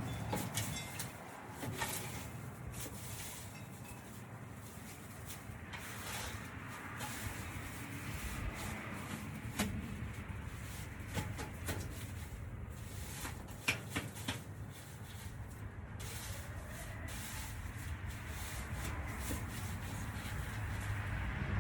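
Pooper scooper scraping and scuffing over the ground, with scattered clicks and knocks.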